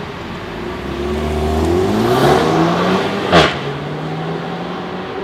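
2018 Renault Mégane RS's 1.8-litre turbo four-cylinder pulling hard, its note climbing. About three and a half seconds in, a sharp crack comes as the EDC dual-clutch gearbox upshifts and the revs drop, and the engine then runs on at a steadier, lower pitch.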